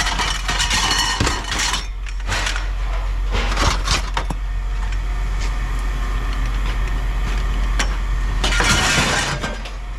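Pieces of scrap metal, such as aluminum frames, clattering and clinking as they are handled and tossed, with dense bursts of clatter near the start and again near the end. A steady low hum runs underneath.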